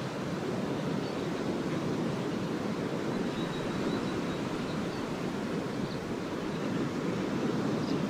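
Small lake waves washing steadily onto a sandy shore in a continuous rushing surf, with a few faint high chirps above it.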